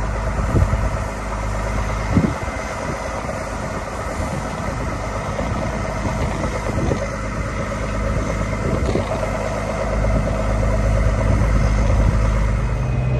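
Diesel engine of the harvest machinery running steadily under throttle, with a couple of brief knocks early on. Its low rumble grows heavier from about ten seconds in.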